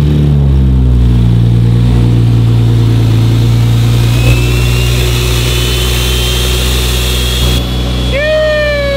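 Single-turbo BMW 340i's B58 inline-six idling steadily just after start-up, its speed easing down slightly in the first second, with a faint high whistle rising through the middle. Near the end a long, falling vocal shout sounds over it.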